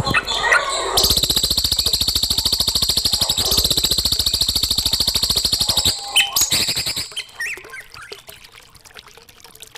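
Recorded songbird song: a fast, dry, rattling trill held for about five seconds, then a few short chirps before it quietens near the end.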